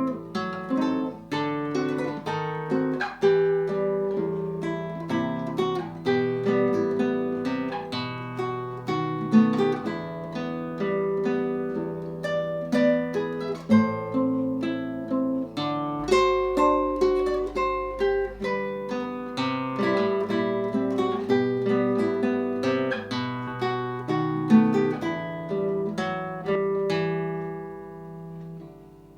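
Solo guitar played fingerstyle: a melody of plucked notes over held bass notes. Near the end the playing slows and a last note rings out and fades.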